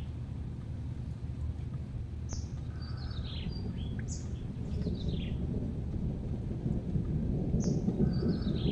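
Birds giving short, high chirps that fall in pitch, a few seconds apart, over a low rumble that grows louder in the second half.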